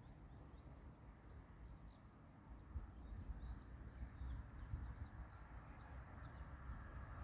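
Faint birds chirping over a low steady rumble. Near the end a faint, steady high whine sets in.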